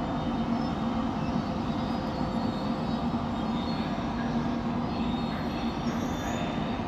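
Passenger train hauled by an electric locomotive rolling slowly into a station: a steady rumble with a low hum, and faint high wheel squeals about five seconds in.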